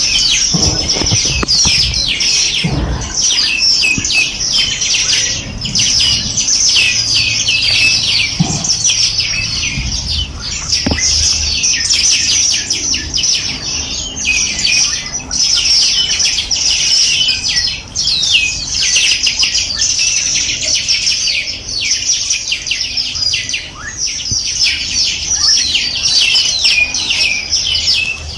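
A chorus of many small songbirds chirping and trilling rapidly and continuously, many overlapping high calls at once.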